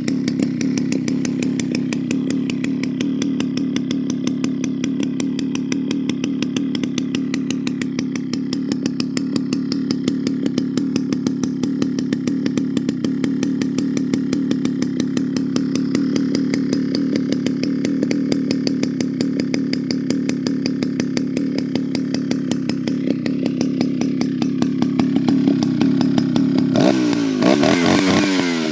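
Dolmar CT two-stroke chainsaw, freshly rebuilt, idling steadily after starting; about 27 seconds in it is revved up and down in several quick throttle blips.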